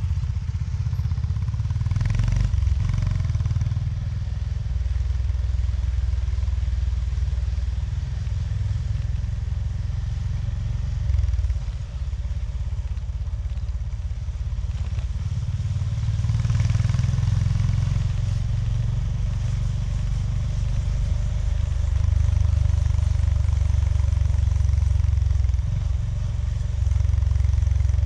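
Honda GB350S single-cylinder engine running under way, its note shifting up and down with throttle and gear changes, with a brief drop about twelve seconds in.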